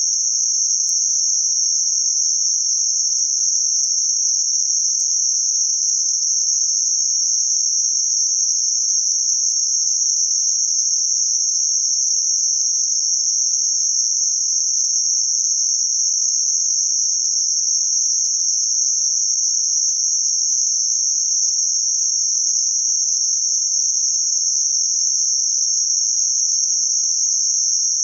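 Synthetic band-limited noise centred around 6051 Hz: a steady, even high-pitched hiss that does not change.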